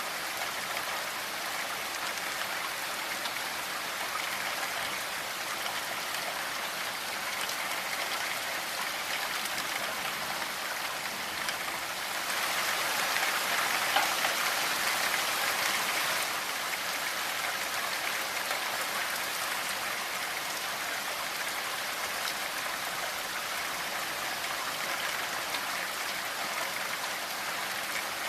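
Steady rainfall, the patter of many drops on surfaces, growing heavier for a few seconds around the middle.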